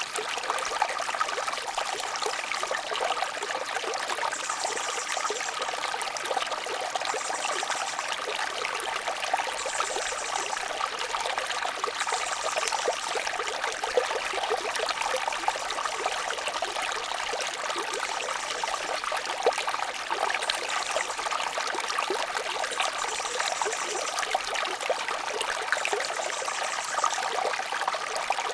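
Shallow babbling brook: water trickling and splashing steadily over stones. Short high bird trills come every few seconds.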